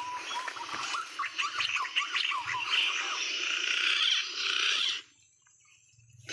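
Wildlife calls: many rapid chirps over a dense buzzing that cuts off suddenly about five seconds in.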